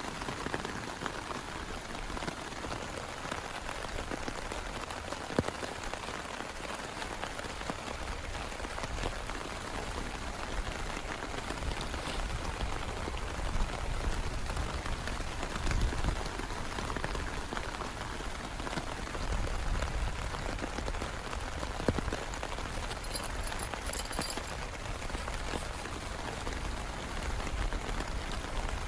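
Heavy rain falling steadily, with a few sharper single drop hits standing out from the patter.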